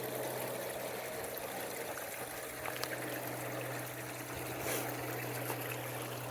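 Small spring water trickling steadily out of rocks.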